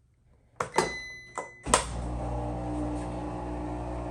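Washing machine control panel: a few button clicks with an electronic beep, then the machine starts about two seconds in and runs with a steady hum as the cycle begins.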